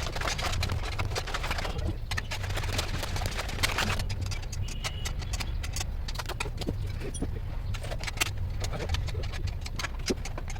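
Motorcycle workshop noise: a steady low rumble under frequent small metallic clicks and clinks, with a brief high tone about halfway through.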